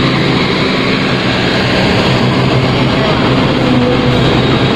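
Passenger train arriving along a platform: the steady engine drone of the diesel power car passing close by, then a coach rolling past, with continuous wheel and running noise.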